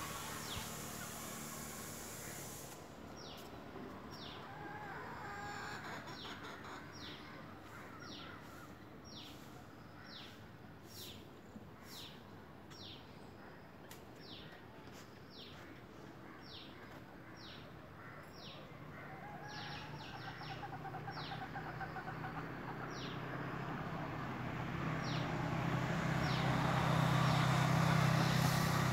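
A bird calling over and over, short high chirps that each drop in pitch, about one a second. In the last several seconds a low steady drone grows louder and becomes the loudest sound.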